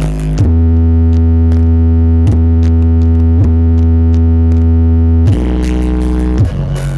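Electronic music played loud through the Riswanda Audio sound system during a sound check. It is made of long, deep held synthesizer bass notes that change pitch every one to two seconds.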